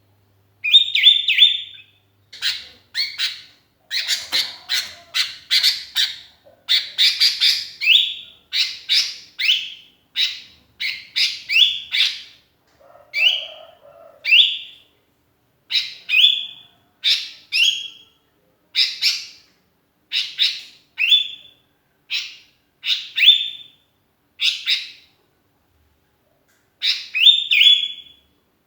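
Sooty-headed bulbul (kutilang) calling over and over in short chirping phrases of two to four quick slurred notes, separated by brief pauses, as if calling to other birds.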